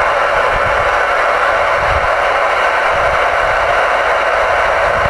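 Steady static hiss from a Galaxy DX-979 CB radio's speaker while it receives, with the sound narrowed to a mid-range band.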